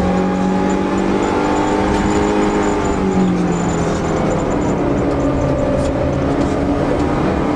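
Fiat Seicento Sporting Abarth rally car's small four-cylinder engine running hard on a special stage. Its pitch falls slowly through the middle as the revs drop, then climbs again near the end.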